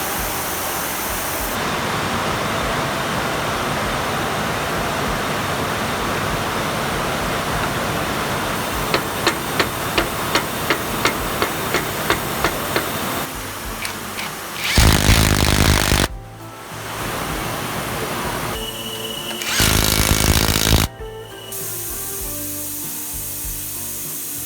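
Workshop power-tool work: a run of about a dozen evenly spaced clicks, then two loud bursts of a power tool, each about a second long, with background music.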